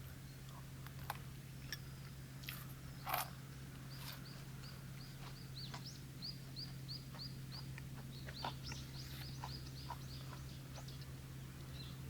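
A bird calling a run of short, evenly repeated high chirps, about three a second, with scattered clicks and a sharper knock about three seconds in, over a steady low hum.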